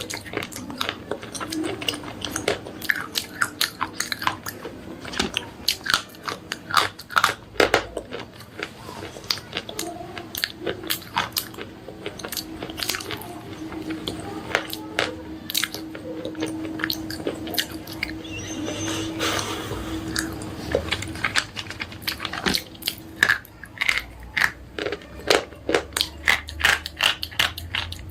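Slate pencils being bitten and chewed: a fast, uneven run of sharp crunches and snaps, thinning out for a few seconds in the middle.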